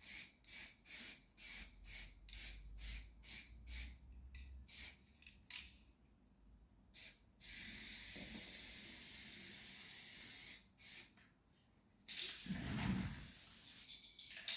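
Aerosol spray-paint can shaken in quick rattling strokes, about two a second, then sprayed in a steady hiss of about three seconds, followed by a short spray and another longer one.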